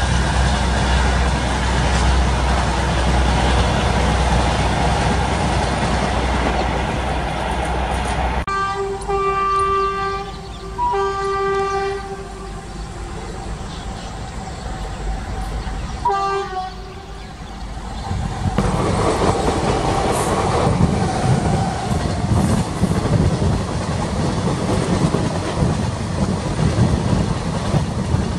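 Indian Railways passenger coaches rolling past with a steady rumble. About eight seconds in, a train horn sounds in a long blast of several seconds, with a short second blast about sixteen seconds in. From about eighteen seconds in, another passenger train passes close, its wheels clattering over the rail joints.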